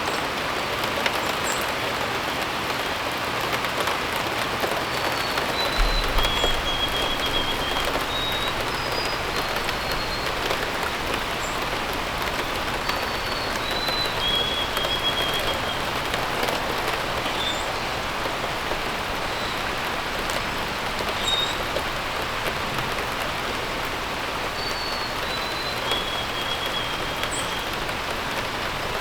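Steady rain falling, with a bird singing a short phrase of three or four stepped-down notes, the last one held. The phrase comes three times, and there are faint high chirps here and there.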